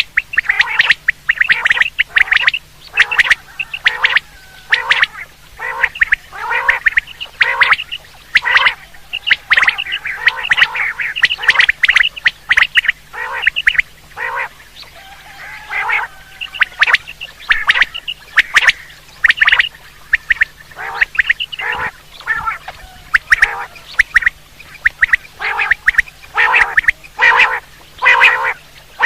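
Quail calling over and over in quick, sharp notes grouped in short clusters: a quail call recording used as a lure for quail hunting. A faint steady low hum lies underneath.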